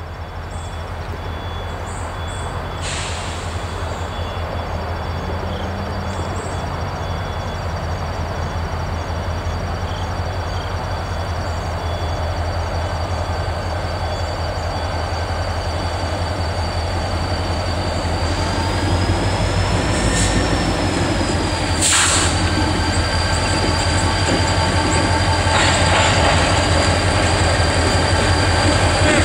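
Wheeling & Lake Erie diesel freight train approaching, growing steadily louder: a steady low engine drone under a rising rumble, with a high whine that rises and then falls about two-thirds of the way through. The locomotive reaches the crossing near the end.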